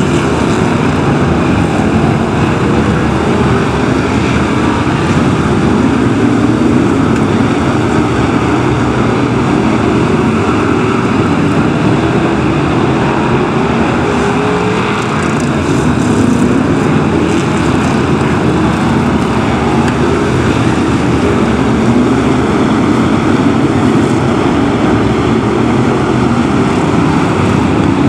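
A pack of BriSCA F1 stock cars racing, their V8 engines running loud and without a break, several engine notes rising and falling against one another as the cars lap and pass.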